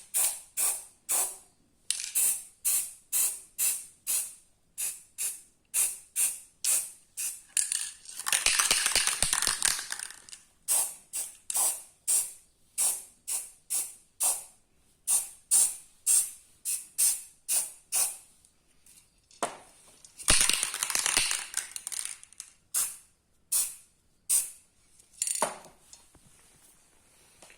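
Aerosol can of heat-resistant spray paint hissing in quick short sprays, about two a second, with two longer sprays about 8 and 20 seconds in, as a first coat goes onto a motorcycle silencer.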